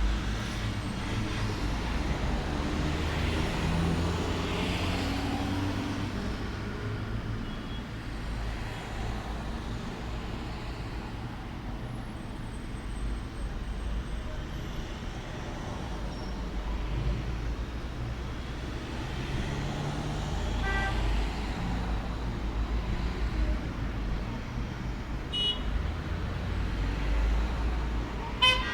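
Steady low rumble of road traffic, with a few short horn toots, the last and loudest just before the end.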